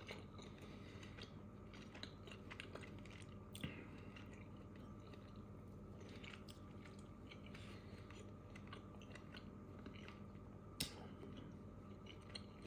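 Faint chewing of a mouthful of stir-fried pork and vegetables, with small scattered clicks and two sharper clicks, one about three and a half seconds in and one near the end, over a steady low hum.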